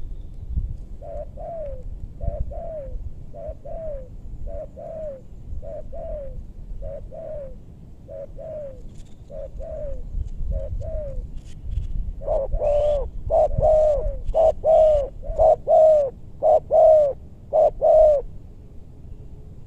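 Spotted dove (tekukur) cooing: a steady run of softer, evenly repeated coos, then from about twelve seconds in a louder, fuller series of coos that stops a little before the end.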